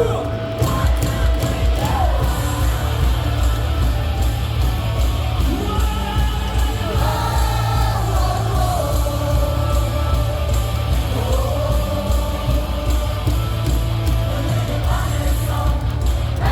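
Loud rock cheering song played over stadium loudspeakers, with a heavy steady bass beat and voices singing along.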